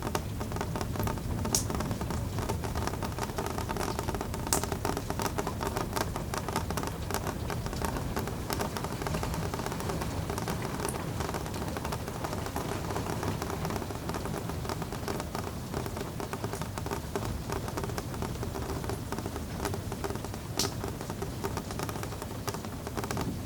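Steady rain falling in a dense, even patter, with a few louder single drips standing out now and then.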